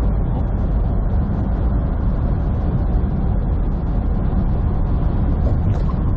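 Steady road, engine and wind noise inside the cab of a semi truck cruising on the highway: an even low rumble that doesn't change.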